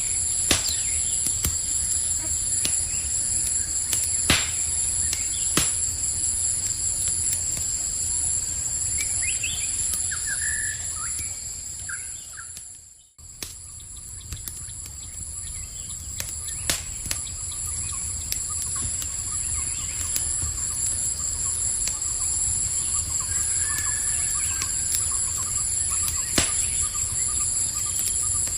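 Wood campfire crackling, with scattered sharp pops, over a steady high-pitched chorus of night insects. A few short bird chirps come about ten seconds in, and about thirteen seconds in the whole sound fades almost to silence and returns.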